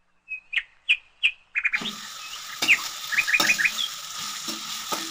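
Sliced onions frying in oil in a steel pot, being cooked until translucent: a steady sizzle starts a little under two seconds in, with a steel ladle stirring and clinking against the pot. Several short high chirps come before and over the sizzle.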